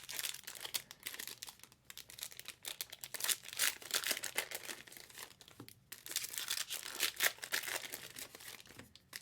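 Trading card pack wrappers crinkling and tearing as packs are opened by hand: irregular crackling throughout, with a few brief pauses.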